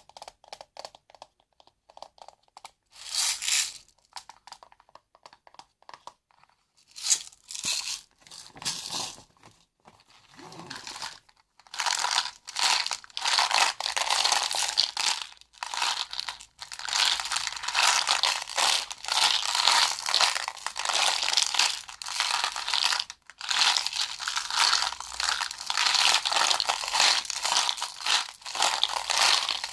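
Close crinkling and crackling of something being handled, in short scattered bursts at first, then almost continuous through the second half.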